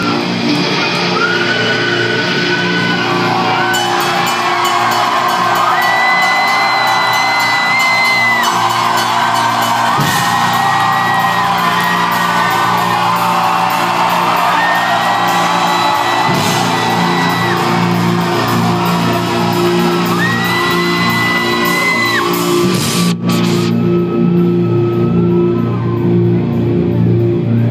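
Loud live rock music in a large hall, with long held high notes over steady low ones, and the crowd whooping and shouting.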